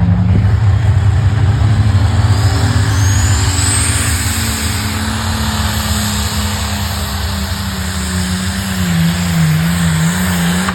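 A pulling vehicle's engine running loud under load. A high whistle rises in pitch about two to four seconds in, and the engine note wavers near the end.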